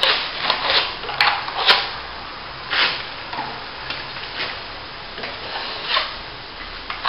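Steel plastering trowel scraping and smoothing wet top coat plaster over a plasterboard repair, in repeated short strokes. Two sharp clicks come between one and two seconds in.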